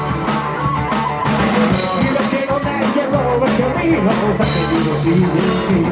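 Rock band playing live: drum kit, electric guitars and bass.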